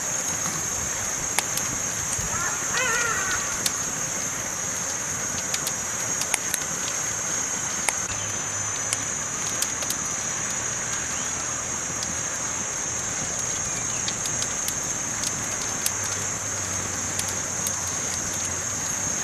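Campfire crackling: many sharp pops and snaps scattered over a steady hiss. A bird calls once, briefly, about three seconds in.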